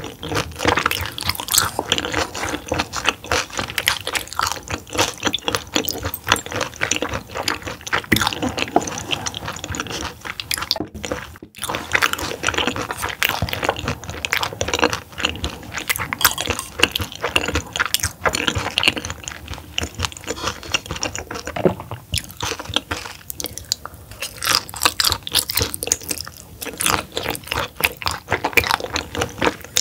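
Close-up chewing of raw roughscale sole sashimi: a dense, continuous run of small mouth clicks and chews, with two momentary dropouts about a third of the way in.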